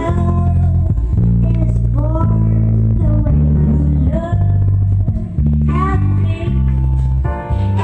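Music with a heavy bass line and guitar, played through home speakers and a Yamaha subwoofer as a sound test. The deep bass notes change about once a second.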